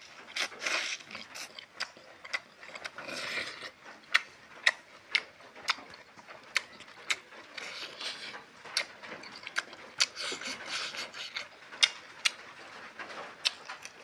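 Close-up eating sounds: wet chewing and lip-smacking, with a series of sharp smacks, often about half a second apart, between softer squelchy chewing.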